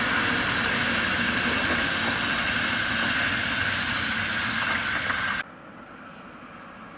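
Passenger train of coaches rolling past at speed on an electrified line, a steady rumble with a rushing wheel-on-rail noise. It cuts off suddenly about five seconds in, leaving a much quieter background noise.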